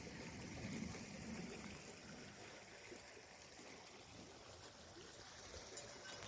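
Faint, steady rush of a river stream flowing.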